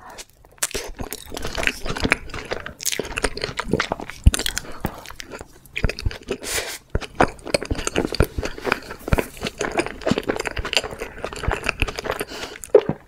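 Close-miked chewing of a big bite of chocolate-syrup-drizzled crepe cake, starting about half a second in as the forkful goes into the mouth.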